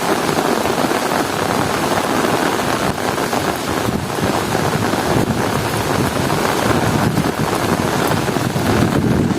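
Heavy rain falling steadily, with strong wind adding a low rumble underneath.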